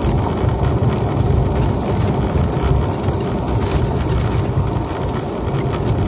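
Car interior noise while driving: a steady low engine and road rumble, with scattered light ticks above it.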